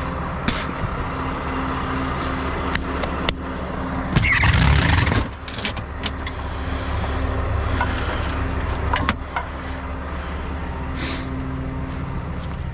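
Heavy truck engine idling steadily, with scattered short metallic clicks and knocks and a brief louder burst of noise about four seconds in.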